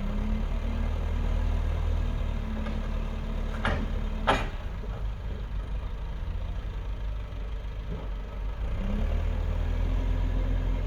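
A heavy vehicle engine running and being loaded down: its steady drone sags in pitch through the middle and picks back up near the end. Two sharp metallic clanks come about half a second apart, a little before the midpoint.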